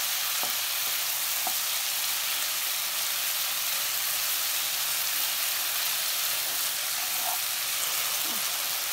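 Potato strips sizzling in hot oil in a pan as they are stirred with a spatula: a steady frying hiss, with a few light spatula taps in the first couple of seconds.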